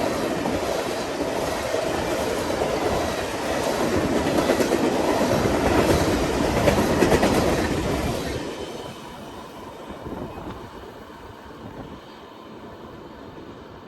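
Train rolling past, wheels clicking and rumbling over the rails, loudest around the middle, then fading sharply about eight and a half seconds in as the cars go by.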